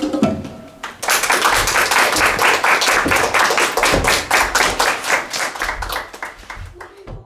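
Music ends about a second in, and audience applause follows, many hands clapping at once and dying away toward the end.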